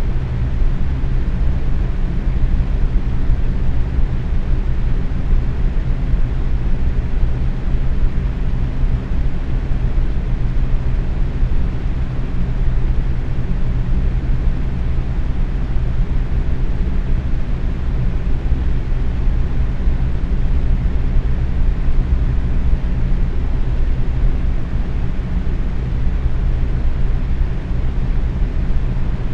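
Box fan running steadily at medium speed: a constant whooshing air noise, heaviest in the low end, with a faint low motor hum.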